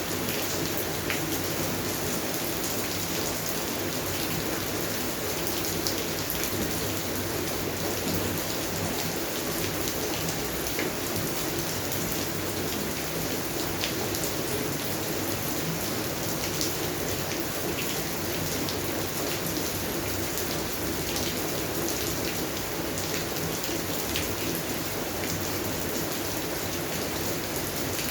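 Steady rain falling on a garden, with a dense patter of individual drops hitting plants and surfaces.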